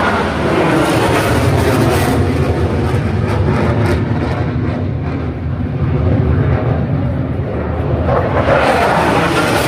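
Military jet aircraft flying over during an aerobatic display: a loud, continuous jet rumble with heavy low end, easing slightly midway and swelling again near the end.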